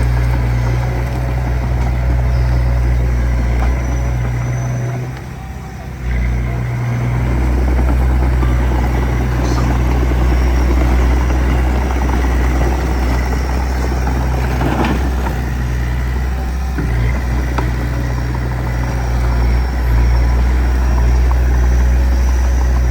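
Small bulldozer's diesel engine running under load with a steady low drone, which dips briefly about five seconds in and picks up again.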